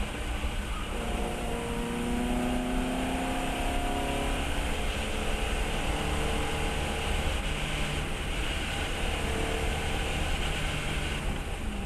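Fiat 132 race car's engine pulling hard at speed, its note rising slowly and easing off, with a drop in pitch near the end, over a steady rush of noise.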